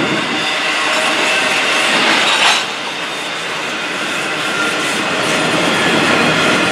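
Piggyback flatcars carrying truck trailers roll past on steel wheels and rails in a steady clatter, with faint high squealing tones from the wheels. A brief, louder burst of noise comes about two and a half seconds in.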